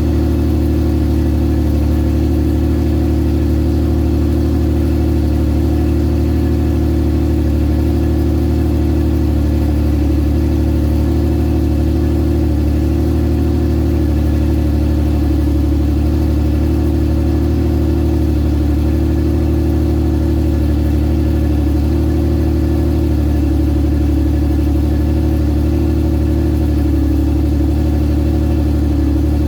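Porsche 911 SC's air-cooled flat-six idling steadily while it warms up after a cold start.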